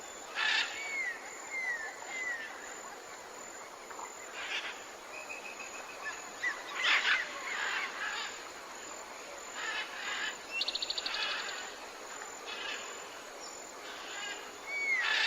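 Several birds calling over a faint steady background hiss: short whistles falling in pitch, chirps, and a fast trill about ten and a half seconds in.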